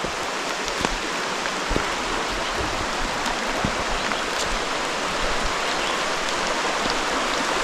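Steady rushing of a creek, slowly growing a little louder, with a few faint ticks.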